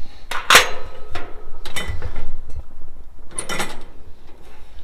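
Kerosene heater's wick-adjuster knob and shut-off mechanism being turned down to put the heater out, clicking and ratcheting. There is a sharp click about half a second in and a rattle near the end.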